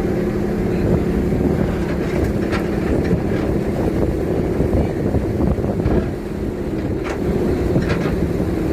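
Harbour ferry's engine running with a steady low hum while under way, with wind buffeting the microphone out on the open deck.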